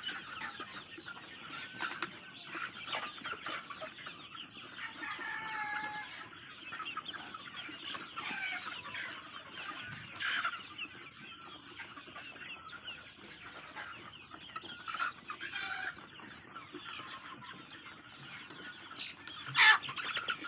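A large flock of native chickens clucking and chattering continuously, many birds calling over one another. One sudden loud sound near the end.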